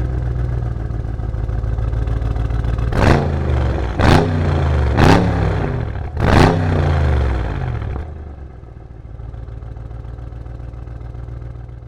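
Mercedes-AMG E63 S V8 exhaust running at idle, then blipped four times in quick succession, each rev rising and falling back within about a second. It then settles back to a steady idle that drops quieter a few seconds before the end.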